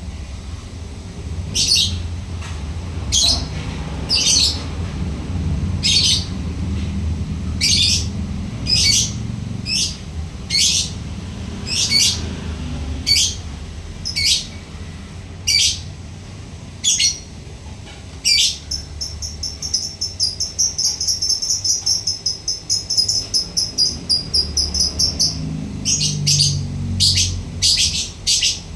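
Lovebird giving sharp, high chirps about once a second, then, from a little past halfway, a long rapid chattering trill of about seven seconds: the 'ngekek' song of a lovebird. Sharp chirps resume near the end, over a steady low hum.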